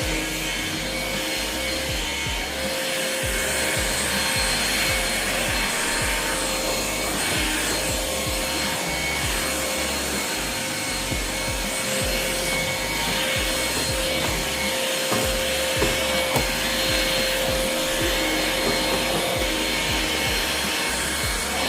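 Ryobi cordless vacuum running steadily, a constant motor whine over rushing air, while vacuuming up gritty dirt and sand.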